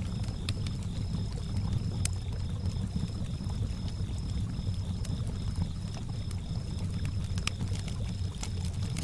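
Lakeside campfire ambience: water lapping with a low rushing wash, crickets chirping in an even pulsing trill, and a few sharp crackles from the fire.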